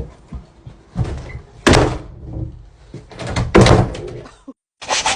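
A door banging: four loud thumps, the second and fourth the loudest.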